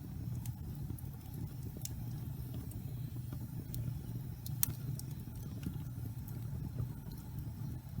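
Log fire burning in a fireplace: a steady low rumble with scattered sharp crackles, the loudest pop a little past halfway.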